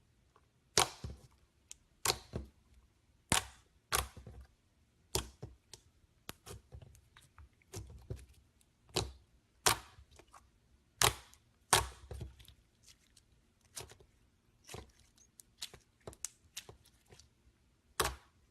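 Slime being worked by hand, giving a series of sharp popping clicks at irregular intervals, roughly one a second.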